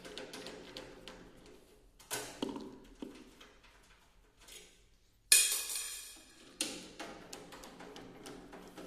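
Tools and metal parts knocking and clinking during hands-on repair work, with scattered light clicks and one sudden loud metallic clatter about five seconds in that rings briefly.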